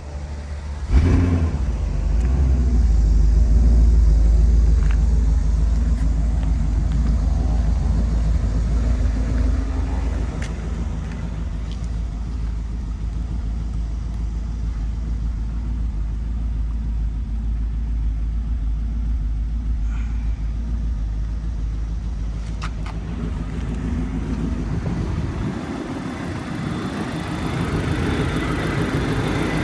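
Audi S4 engine cold-starting: it catches with a sudden burst about a second in, then runs at a steady fast idle that eases slightly after about ten seconds.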